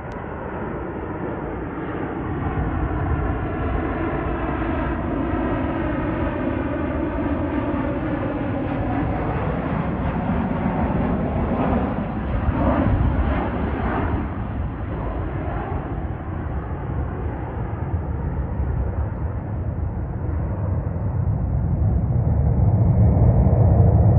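Jet airliner's engines passing close on arrival. The engine whine bends in pitch as the aircraft goes by about halfway through, and a low rumble grows louder near the end.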